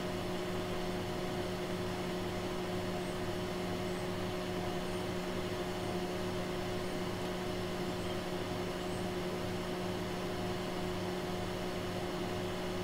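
Steady electrical hum with a few constant low tones over a soft fan-like hiss, from running bench test equipment.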